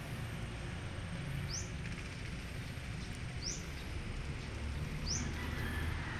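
A bird calling with short, high chirps, four in a row spaced one to two seconds apart, over a steady low rumble of outdoor background noise.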